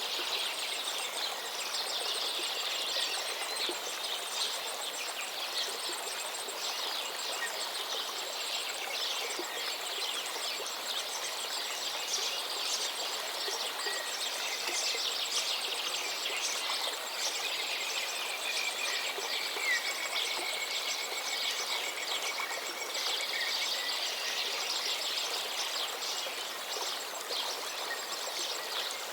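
Gently flowing river water with many birds chirping and calling over it. One long, level whistle runs for several seconds around the middle.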